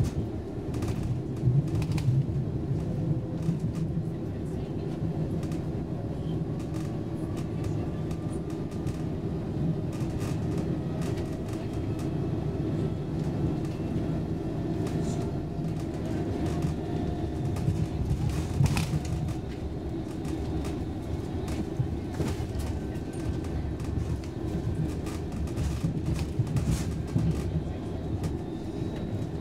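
Inside a moving Roslagsbanan X10p electric commuter train: a steady rumble of the wheels on the rails, with scattered sharp clicks from the track and a faint whine that slowly rises in pitch through the first half.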